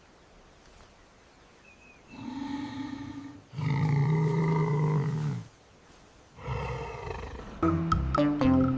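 Lion roar sound effect: three roars in a row, the middle one the longest and loudest.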